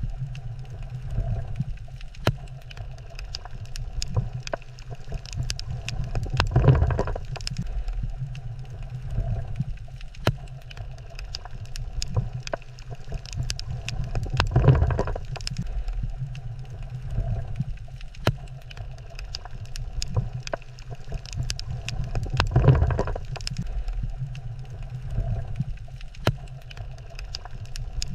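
Underwater reef ambience: a steady low rumble with scattered sharp clicks. A louder surging swell comes about every eight seconds, near 7, 15 and 23 seconds in.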